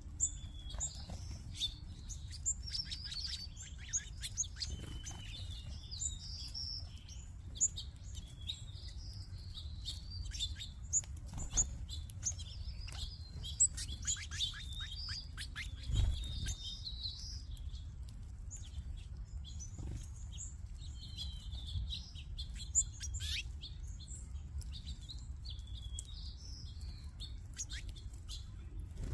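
A large mixed flock of small songbirds at a backyard feeder chirping and twittering, many short calls overlapping continuously, with scattered sharp clicks among them.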